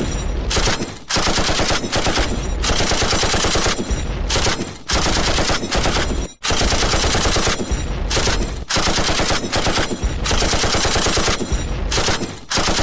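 Recorded machine-gun fire sound effects: long runs of rapid automatic shots, broken by brief pauses of a fraction of a second about a second in, around five and six seconds in, near nine seconds and near the end.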